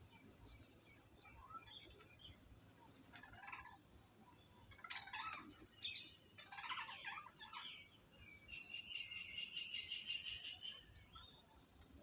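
Faint bird calls: short, harsh chirps scattered through, loudest a little past the middle, and a rapid trill held for about two seconds in the last third.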